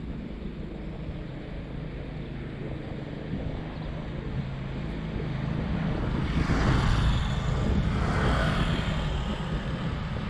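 Two motorcycles passing close by, one after the other about two seconds apart, their engine and tyre noise swelling up and fading, over steady wind and road noise on the moving bicycle.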